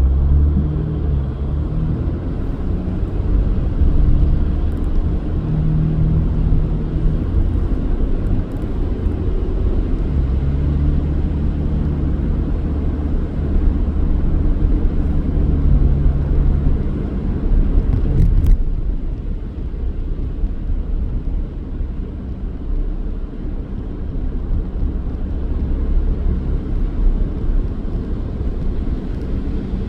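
A car driving: steady low engine and road rumble. It drops to a quieter, smoother rumble about eighteen seconds in.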